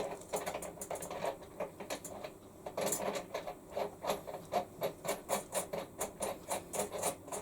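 A steady run of light mechanical clicks, about three a second, from hand work on a top-loading washing machine's wash tub as it is being secured.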